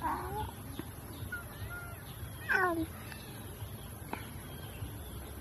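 Bird calls: a short, harsh caw-like call about two and a half seconds in, falling slightly in pitch, with a few faint chirps before it.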